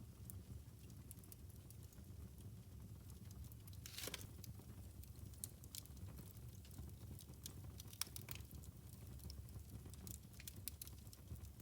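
Wood fire crackling in a fireplace: scattered sharp snaps and pops over a low steady rumble of the flames, with a longer crackle about four seconds in and a sharp pop about eight seconds in.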